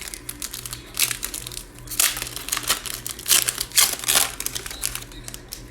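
A trading-card pack wrapper being torn open and crumpled in the hands, with a quick run of irregular crinkles and crackles that ends about four seconds in.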